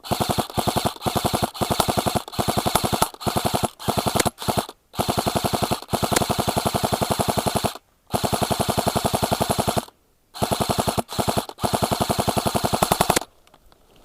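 Specna Arms SA-B05 electric airsoft rifle firing full auto in a long series of bursts, most short and two running close to two seconds, its gearbox cycling rapidly. The firing stops about a second before the end.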